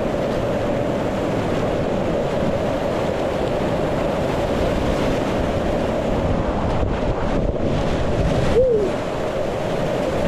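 Steady rush of whitewater rapids, with wind buffeting the microphone. About eight and a half seconds in comes one short pitched call that rises and then falls.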